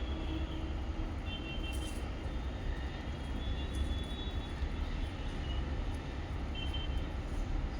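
Steady low rumble in the background, with faint short high chirps from lovebirds several times over it.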